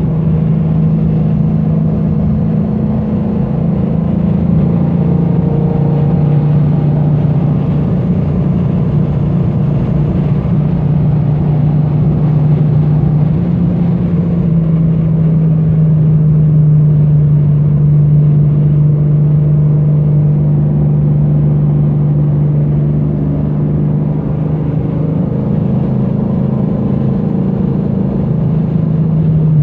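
A 1970 Dodge Challenger R/T's 440 Magnum big-block V8 running steadily under load. Its pitch drops slightly about 13 seconds in and rises again near the end.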